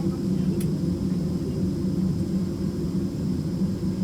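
Steady low drone in the cabin of a Boeing 767 on the ground, with a faint high whine above it and a single small click about half a second in.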